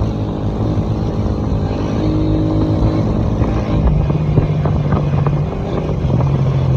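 Motorcycle engine running steadily on the move, its drone holding pitch with a few small steps.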